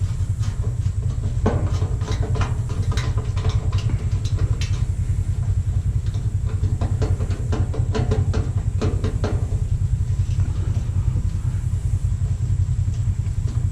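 Small metal parts clinking, in two spells of rapid clinks, as screws and scrap pieces are handled and sorted. Under them runs a steady low rumble.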